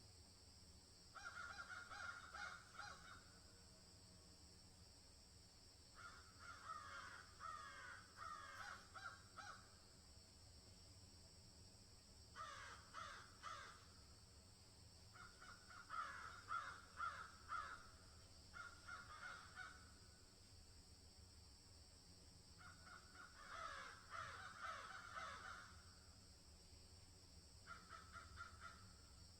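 Faint harsh, caw-like bird calls in repeated bouts of one to three seconds, coming every four to six seconds, over a steady high hiss.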